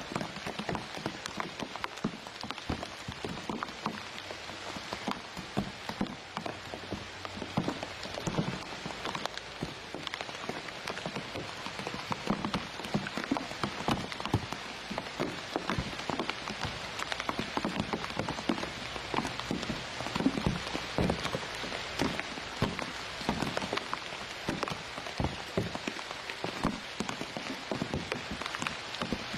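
Rain falling steadily, with many small drop hits.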